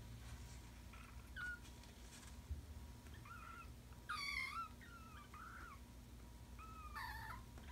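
A young kitten mewing repeatedly: a run of short, high-pitched mews, the loudest about four seconds in. These are mews of annoyance at being handled, not cries of pain, in the fosterer's judgement.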